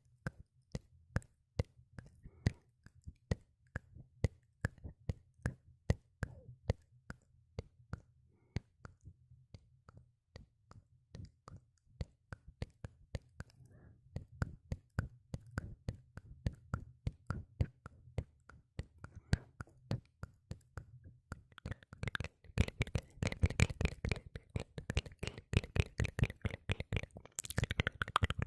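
ASMR mouth sounds close to the microphone: wet clicks and pops from the lips and tongue, a few a second, turning faster and louder about two thirds of the way in.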